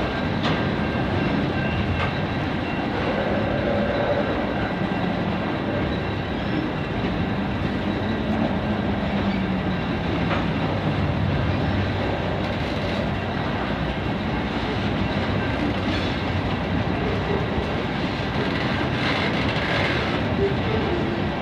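Freight train cars rolling steadily past over the rails: a continuous rumble of wheels on track, with occasional sharp clicks as wheels cross rail joints.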